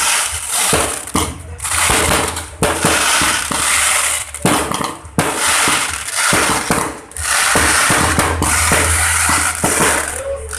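Aerial fireworks going off in quick succession: a dense crackling with many sharp bangs, pausing briefly now and then.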